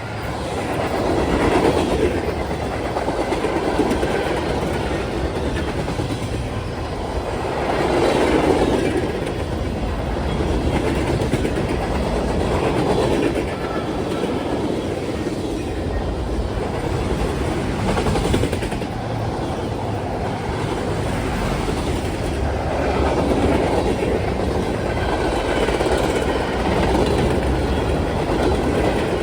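Freight train cars rolling past, steel wheels clattering over the rail joints, the sound swelling and easing every few seconds.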